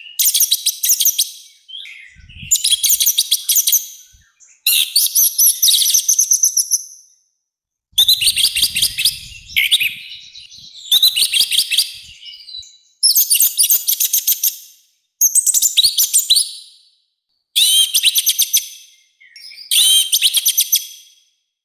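Orange-headed thrush (anis merah) singing loudly in a rough, harsh voice: about nine quick phrases of rapid high notes, each a second or two long, with short pauses between.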